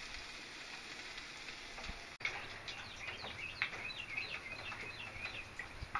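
Faint steady hiss for about two seconds, then birds chirping outdoors: many short, high calls repeated in quick succession.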